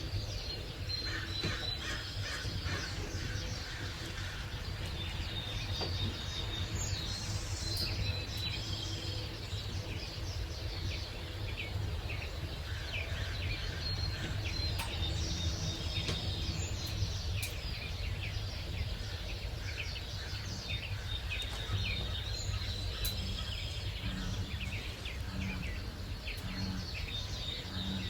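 Many birds chirping and singing together in a dawn chorus, with short chirps and whistled notes overlapping throughout, over a steady low rumble.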